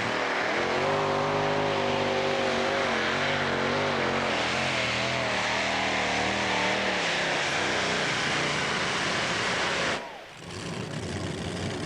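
Competition pulling tractor's engine running hard under load during a pull, its pitch wavering up and down as the revs rise and fall. About ten seconds in, the sound briefly drops away, then comes back.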